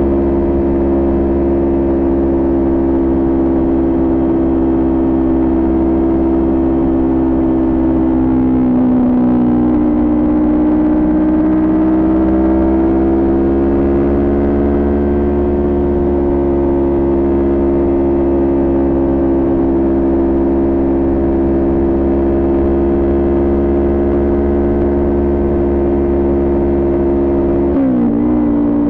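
Kawasaki Ninja 400's parallel-twin engine, with an aftermarket Coffman exhaust, running at a steady cruise. About nine seconds in the engine note dips and then climbs back slowly, and near the end the pitch drops sharply.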